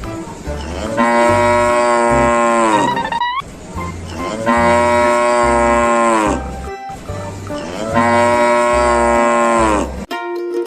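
A cow mooing three times, each a long call that drops in pitch at its end, over background music with a steady beat.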